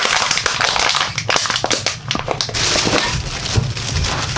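A plastic bag of recycling being handled, crinkling and crackling with many sharp clicks.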